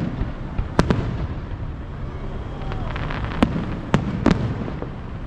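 Aerial fireworks bursting: a sharp bang about a second in, a spell of crackling around three seconds in, then three more bangs in quick succession, over steady low background noise.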